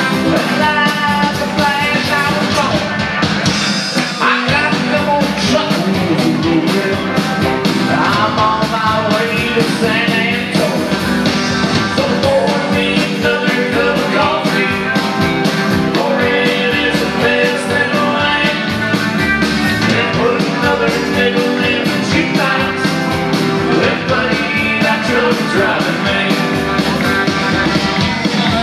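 Live band playing an up-tempo rock-and-roll number with guitar over a steady beat.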